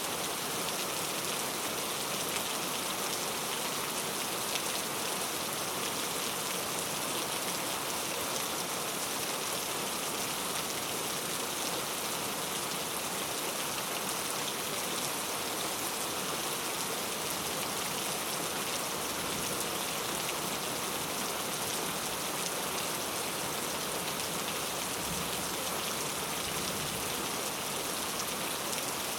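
Heavy rain falling steadily, a dense even hiss of drops on a surface with no let-up.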